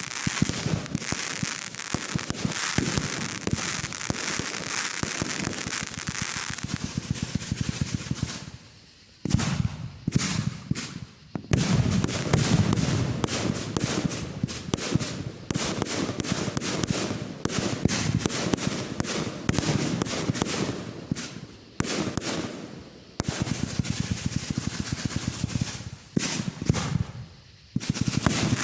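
Fireworks going off in rapid succession: a dense, near-continuous run of crackling pops and reports, broken by several brief lulls of under a second.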